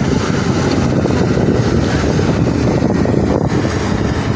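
Farm pulling tractor's engine running loud and steady at high revs.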